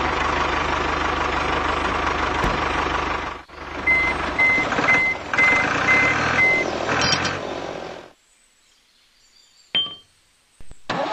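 Tractor engine sound running steadily, with six reversing beeps about half a second apart as the tractor backs up to the trailer. The engine sound stops about two-thirds of the way in, leaving near silence broken by one short sound near the end, before the engine starts up again.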